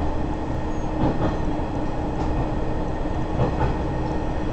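Sanriku Railway diesel railcar running along the South Rias Line: a steady rumble with a faint hum. The wheels clack over rail joints in pairs, about a second in and again around three and a half seconds.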